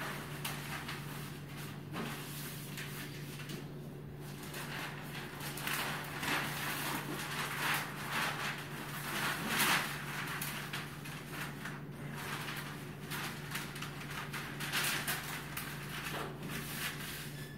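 Paper rustling and scraping in irregular bursts as liner sheets are fed into a bird cage's bottom tray, over a steady low hum.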